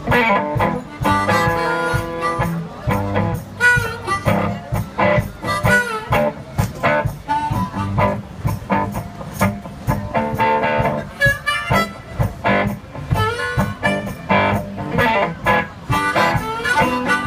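One-man band playing blues: harmonica melody with bending notes over guitar and a steady beat.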